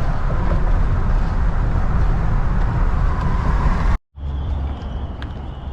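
Steady road and engine rumble of a 2000 Ford Econoline E-150 van driving at highway speed. It cuts off suddenly about four seconds in, giving way to quieter steady background noise with a faint high hum.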